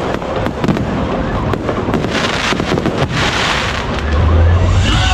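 Aerial fireworks bursting with dense crackling and popping, with a stretch of loud crackling hiss about two seconds in. A louder steady low drone sets in near the end.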